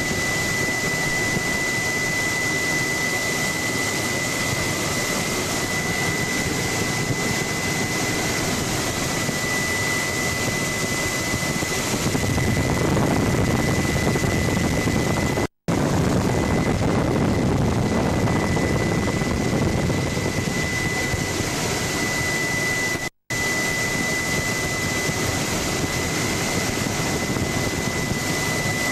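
Helicopter in flight heard from on board: a steady, dense rush of engine and rotor noise with a thin, constant high whine. It cuts out completely for an instant twice, about halfway through and again near the three-quarter mark.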